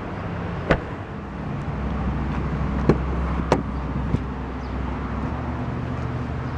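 A steady low hum from the car, filling out about two seconds in, with four short sharp clicks or knocks at about one, three, three and a half and four seconds in.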